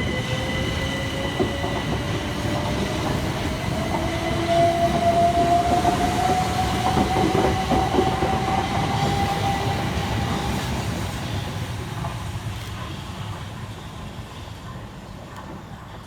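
Two coupled Class 377 Electrostar electric multiple units pulling away from the platform: the traction whine rises steadily in pitch as they accelerate, with wheel clicks over rail joints midway, and the train fades as it moves off.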